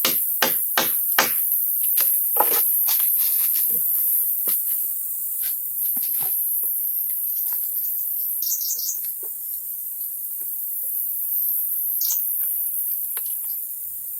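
Hand-tool strikes on wood, a quick even run of about two or three a second in the opening second, then scattered knocks. Under them is a steady high-pitched insect chorus, with a brief burst of high chirps about two-thirds of the way in.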